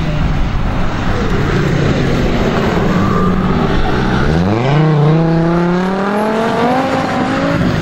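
Rally car engine at speed, holding a steady note and then accelerating hard: its pitch climbs sharply about halfway through and keeps rising toward the end.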